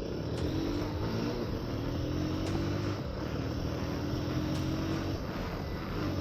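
Motorcycle engine running steadily while riding, with wind noise on the microphone. The engine note drifts slightly lower twice.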